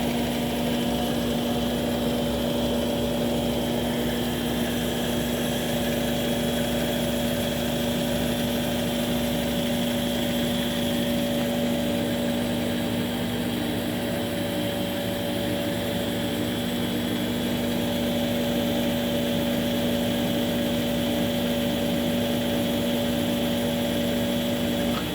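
11 kg Consul washing machine in its spin cycle: the motor and drum run at a steady speed with an even hum and a higher whine over it.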